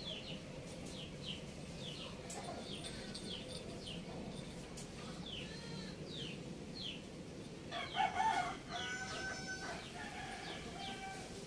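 A small bird repeats short falling chirps, about two a second. A rooster crows once, about eight seconds in.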